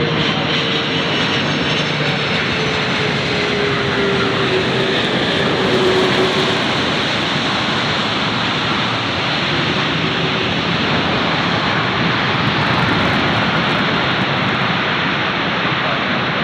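Jet airliner engines running loud and steady with a dense rush. A whine sinks slowly in pitch over the first several seconds.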